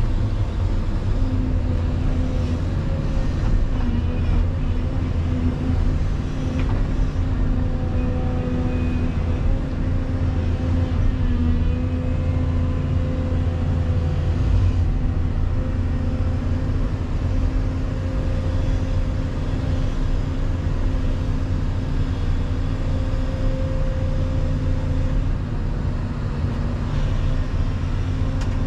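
Volvo EC220EL excavator's diesel engine running steadily at working revs, a low, even drone with a steady hum over it.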